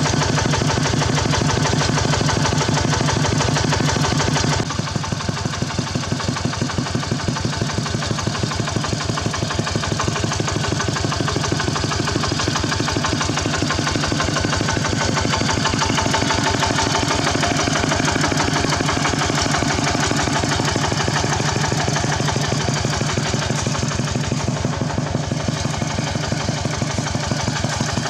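Engine of a Khmer farm tractor running with a steady, rapid chugging beat, a little quieter from about four and a half seconds in.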